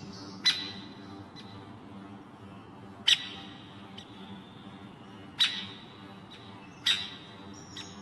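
A bird calling: four short, sharp calls a second or two apart, each with a brief ringing tone after it.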